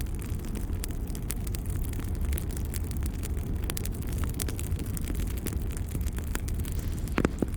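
Crackling wood fire: irregular sharp pops and snaps over a steady low rumble, with one louder pop near the end.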